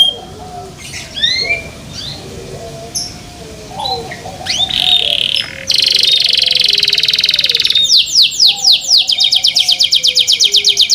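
Canary singing: a few short rising whistles, then a loud buzzing trill about halfway through, followed by a fast run of repeated sweeping notes near the end.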